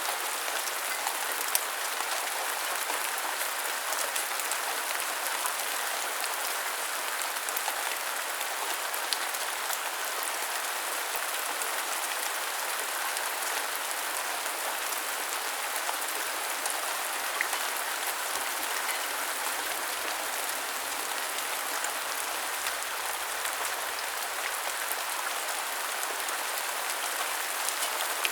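Steady rain falling and pattering on hard surfaces, an even hiss with occasional sharper drop ticks.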